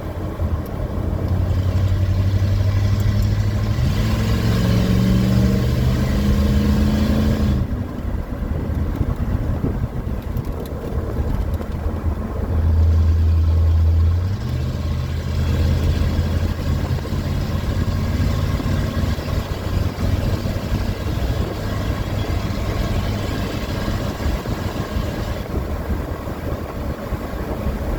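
Ford F-150 pickup engine with an aftermarket (non-stock) exhaust revving under hard acceleration: the note climbs for several seconds, drops off about seven and a half seconds in, and surges again loudly around the middle before settling into steady running.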